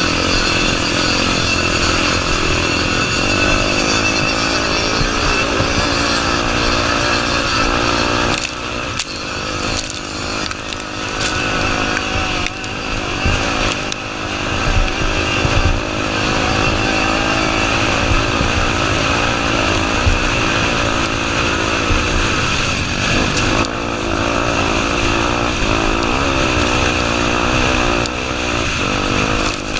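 Honda Tornado 250's single-cylinder four-stroke engine running hard, its revs rising and falling with the throttle and easing off briefly a few times.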